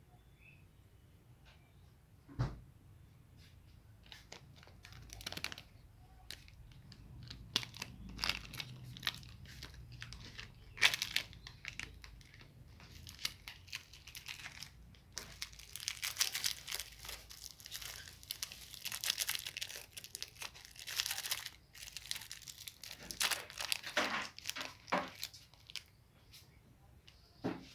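Plastic candy wrappers being torn open and crinkled by hand, a long run of sharp crackles that is densest in the middle stretch.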